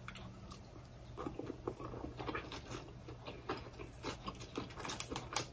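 Soft chewing and small wet mouth clicks of a person eating a mouthful of sticky rice, with a few sharper snaps near the end as fresh leaves are picked off a green stem.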